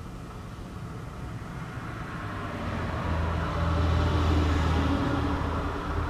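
Motor vehicle engine running with a low hum, growing louder over a few seconds, loudest about four seconds in, then easing slightly.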